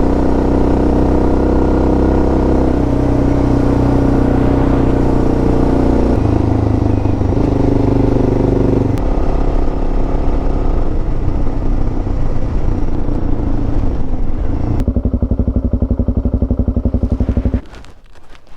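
Suzuki DR650's single-cylinder engine running under way, its pitch stepping up and down a few times, then settling to a slow idle with distinct firing pulses and shutting off about a second before the end.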